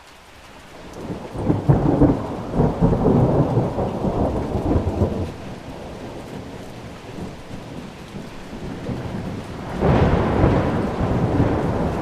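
Thunder rumbling over steady rain: one long roll building about a second in and fading after about five seconds, then a second peal near the end.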